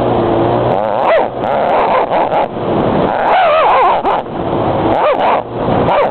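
A dog yipping and whining in several short cries that bend up and down in pitch, over a steady rush of riding noise.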